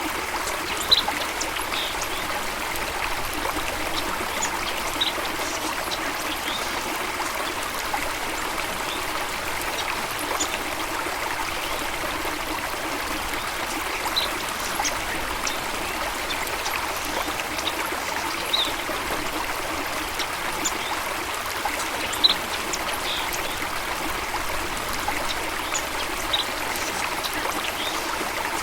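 Flowing water running steadily, a constant rushing trickle, with short high-pitched blips scattered here and there.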